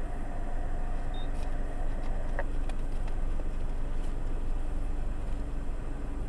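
Steady low rumble of a stationary car idling, heard from inside the cabin, with a couple of faint clicks a little after two seconds in.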